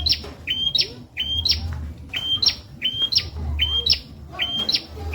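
Prinia (prenjak) calling: a short level whistle snapping into a sharp upward flick, repeated at a regular pace about once a second.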